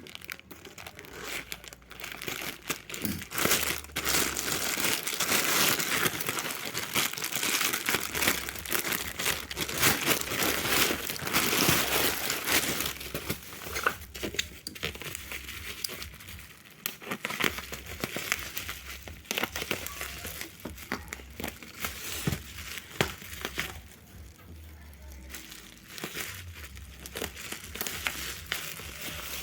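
Packaging crinkling and rustling as it is handled and unwrapped, with some tearing; busiest in the first half, then sparser handling noises.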